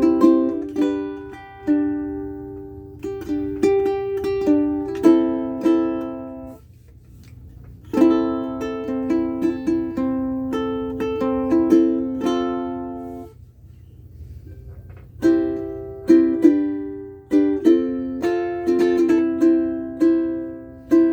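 Solo mahogany ukulele, an aNueNue UC-110 Green Bird strung with aNueNue Green Planet strings, played with strummed chords and plucked notes in phrases, with two short lulls where notes ring out, about a third and two thirds of the way through.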